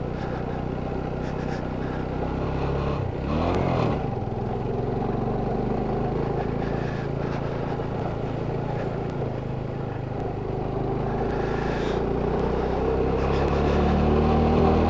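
Motorcycle engine running while under way, its pitch steady apart from a brief dip about three seconds in and a slow rise near the end.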